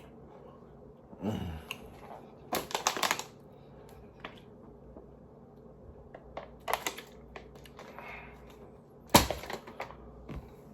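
Close-miked eating: chewing and mouth sounds in several short clusters of sharp clicks and smacks, the loudest about nine seconds in.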